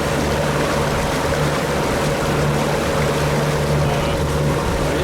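A boat's motor runs at a steady, even hum, with water rushing alongside.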